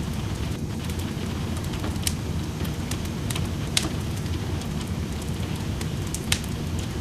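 Wood fire crackling in a fireplace, with a few sharp pops, the loudest just before the middle and one near the end, over a steady wash of rain.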